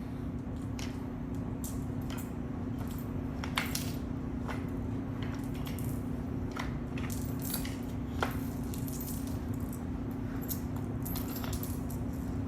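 Scattered light clicks and rattles of small toy pieces being handled, over a steady low hum.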